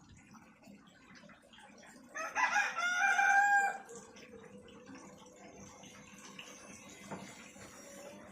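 A rooster crows once, about two seconds in: a single crow lasting about a second and a half that ends on a held note.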